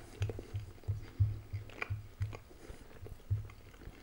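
Close-miked chewing of a mouthful of toast dipped in egg yolk: a low thud with each chew about three times a second, with small clicks and crunches, pausing briefly near the end.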